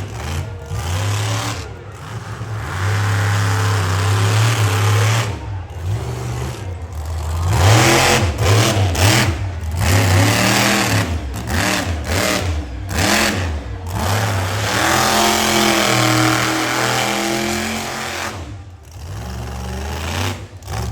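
Monster truck engine revving hard again and again, its pitch climbing and falling with each burst of throttle, with a few sudden brief drops in sound.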